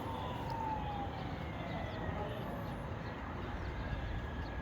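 A distant siren with long, slowly falling tones over a steady low rumble.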